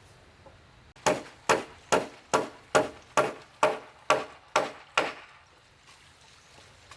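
Ten evenly paced sharp blows of a tool on wood, about two a second, stopping about five seconds in.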